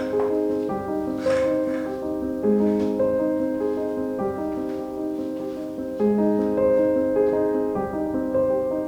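Soft solo piano music, slow held chords, with a new, louder phrase starting about six seconds in.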